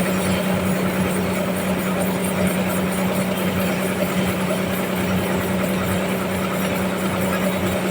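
Sawmill machinery running steadily, a constant hum under a wide spread of mechanical noise.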